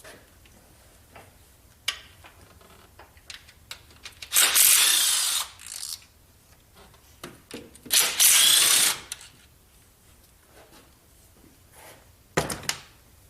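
Hand ratchet wrench clicking in two fast runs of about a second each, a shorter run near the end, and scattered small clicks of tools and parts in between.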